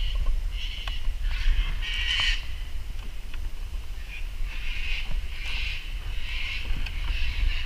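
Birds calling in short, repeated bursts over a steady low rumble.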